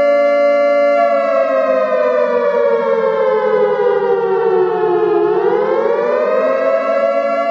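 Loud siren tone with many overtones: held steady, then sliding slowly down in pitch for about four seconds, rising back up and holding steady again.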